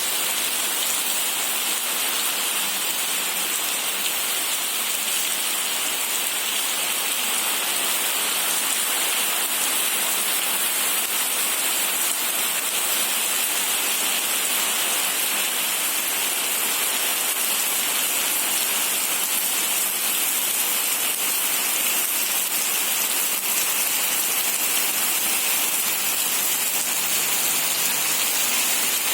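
Rain falling steadily, an even hiss that holds without change.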